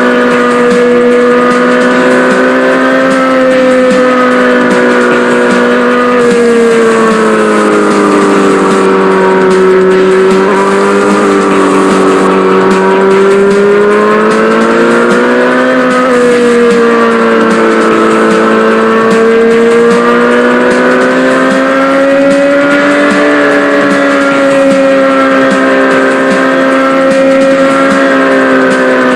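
A small engine running continuously with a high, buzzing whine, its pitch rising and falling slowly every few seconds as the throttle changes.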